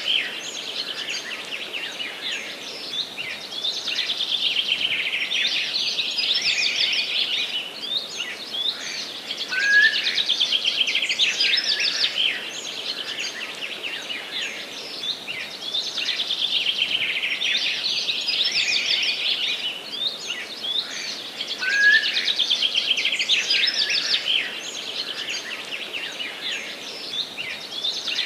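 Several songbirds singing in a forest, rapid trilling and chirping phrases that overlap one another without a break, over a faint steady hiss.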